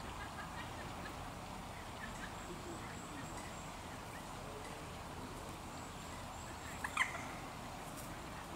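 A single short bird call, a quick double note about seven seconds in, over steady background noise with a few faint chirps.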